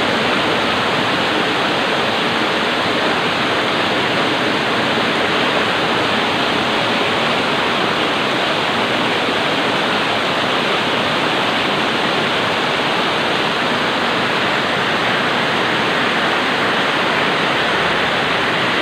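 Heavy rain pouring down in a loud, steady downpour, an even rushing hiss with no change throughout.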